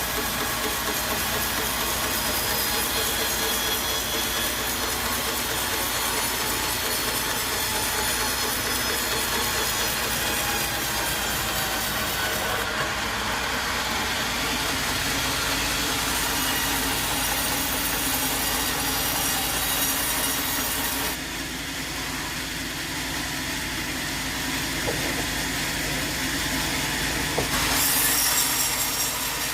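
Sawmill saw cutting through timber over a steady machine drone. The cutting noise thins out about two-thirds of the way through and grows again near the end.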